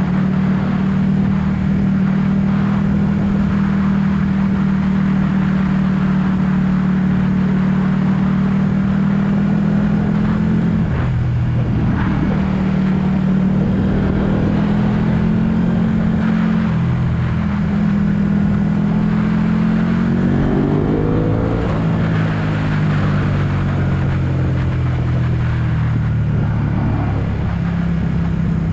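Ducati 1199 S Panigale's Superquadro L-twin engine heard from on board while riding, holding a steady note for the first ten seconds with a brief dip in revs just after. About twenty seconds in the revs climb sharply, then the engine settles back to a lower, steady note.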